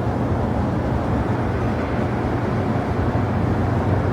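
Steady low rumble of airliner jet engines, even in level throughout.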